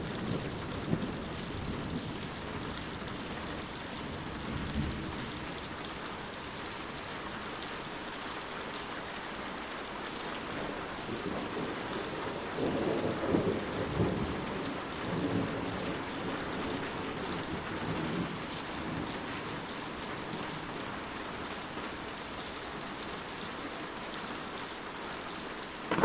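Steady rain falling, with fine patter of drops throughout. Low rolling thunder swells up a few times, loudest about halfway through.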